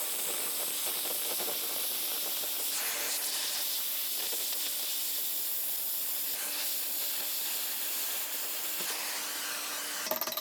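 Oxy-fuel cutting torch hissing steadily as it cuts through a steel railway rail.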